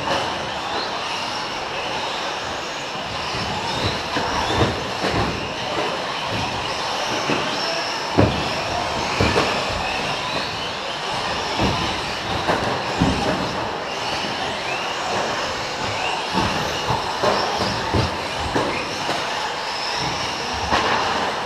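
A pack of electric 4x4 short course RC trucks racing, brushless motors whining up and down in pitch as they accelerate and brake. Sharp knocks are scattered throughout, the loudest about 8 seconds in.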